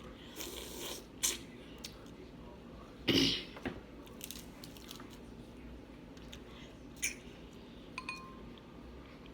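Snow crab legs being cracked and eaten: a scattered series of sharp cracks and snaps with wet chewing between them, the loudest crack about three seconds in. Near the end comes a short ringing clink.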